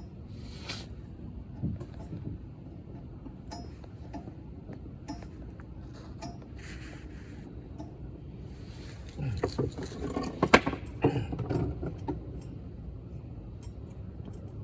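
Scattered light metallic clinks and knocks from hand tools and parts being handled, busiest about nine to twelve seconds in, with one sharp clank near the middle of that stretch.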